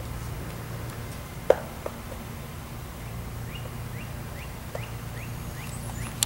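A bird calling a quick run of about eight short rising notes in the second half, over a steady low hum, with a few isolated sharp knocks, the loudest about a second and a half in.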